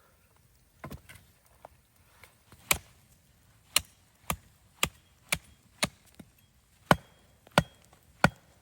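Wood being chopped with a hatchet or axe: a few light knocks, then a run of about nine sharp strikes, each a half second to a second apart.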